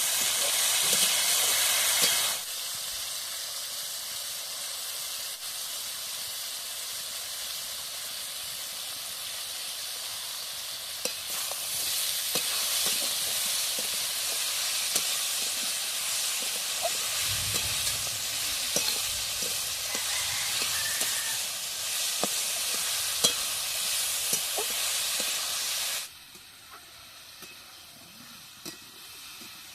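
Food sizzling as it fries in hot oil in a pan, with small clicks from stirring and spattering. The sizzle steps down abruptly about two seconds in, grows louder again around eleven seconds, and falls off sharply near the end.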